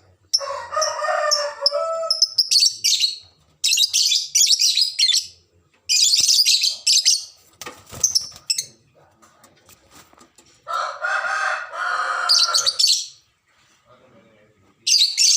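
Lovebirds calling in a run of shrill, high chirping bursts of a second or so each. A longer, lower call comes twice, near the start and about eleven seconds in.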